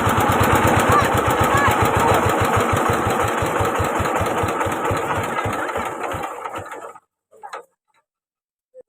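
Small engine running steadily, then switched off: its firing beats slow down and die away about seven seconds in.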